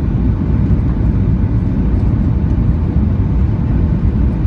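Steady low roar of a Boeing 737-800's engines and rushing air, heard inside the passenger cabin.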